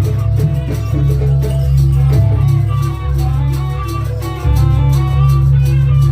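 Loud amplified live music accompanying a Javanese kucingan/jaranan folk dance: a heavy booming bass, a fast steady percussion beat and a repeating melodic line. The bass grows louder about four and a half seconds in.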